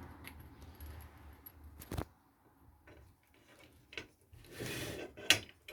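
Small metal workshop parts being handled on a bench: a few sharp clicks and knocks, with a short scrape just before the loudest click near the end.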